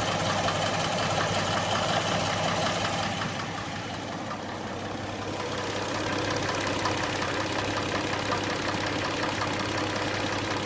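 Hyundai Tucson engine idling with a rapid, even ticking knock from the top of the engine, which the owner puts down to the hydraulic valve lifters. The sound is briefly quieter around four seconds in.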